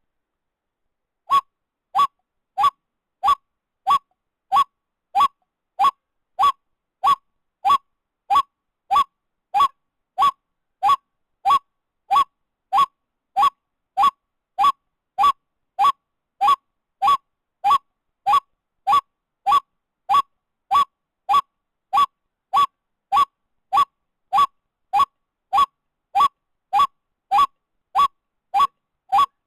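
White-breasted waterhen call, one short note repeated exactly alike about one and a half times a second, starting about a second in: a looped recording of the bird's call.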